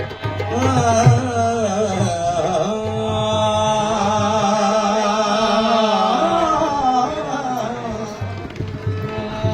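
Qawwali music: a long, wavering melodic line held over several seconds, with dholak drum strokes near the start and again near the end.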